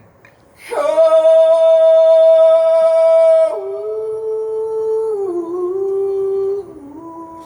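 A man singing unaccompanied: about a second in, a loud long held note, then a drop to a lower, softer note that dips briefly and steps down again near the end.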